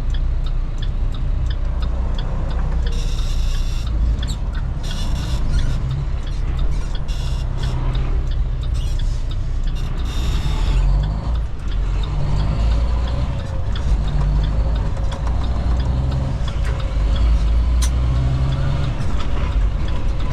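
Semi-truck engine running, a steady low rumble heard from inside the cab. Several short air-brake hisses come between about three and eleven seconds in.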